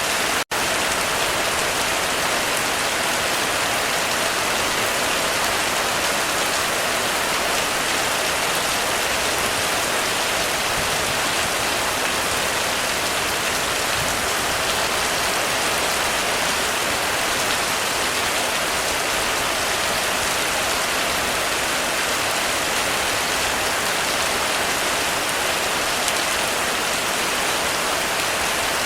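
Heavy rain falling steadily on a roof, an even wash of hiss with no thunder. The sound cuts out for a split second about half a second in.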